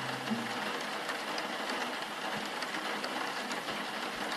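Steady rain: an even hiss of rainfall with faint scattered ticks. A last low guitar note dies away about half a second in.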